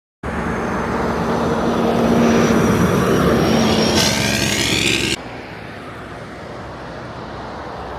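Heavy truck engine and road noise, starting abruptly and dropping suddenly to a quieter, different passing-vehicle sound about five seconds in.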